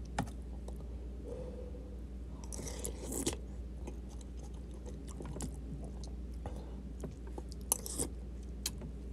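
Close chewing and eating sounds of a person eating a meal with a spoon, with a few sharp clicks of the spoon against the bowl, most of them near the end.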